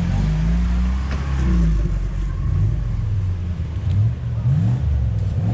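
UAZ off-roader's engine running under load and being revved, its pitch rising and falling several times.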